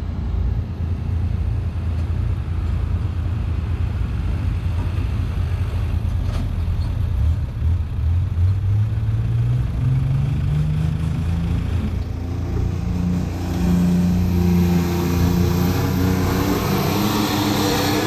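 Air-cooled Deutz diesel engine of a pulling tractor running steadily. About eight seconds in it revs up and then holds at a higher speed.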